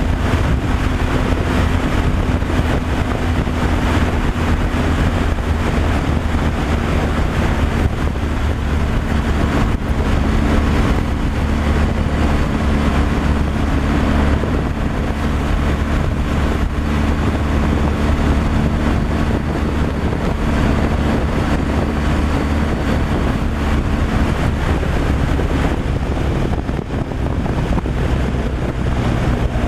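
Tractor-trailer truck driving at a steady speed: a continuous low engine drone under road and wind noise.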